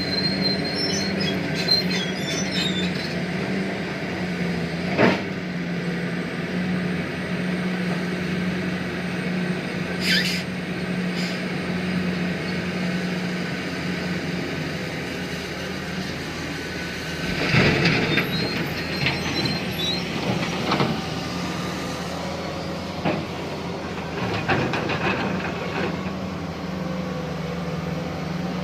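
Tata Hitachi Zaxis 870 LCH excavator's diesel engine running steadily with a deep hum, broken by a sharp knock about five seconds in, a brief high squeal near ten seconds, and a loud burst of clattering and banging a little past halfway, with smaller knocks and rattles after it.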